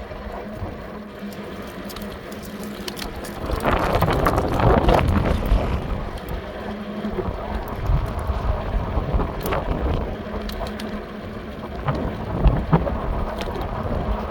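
Strong wind buffeting the microphone during an e-bike ride, swelling in gusts, loudest about four to five seconds in. Scattered sharp ticks and a faint steady hum run underneath.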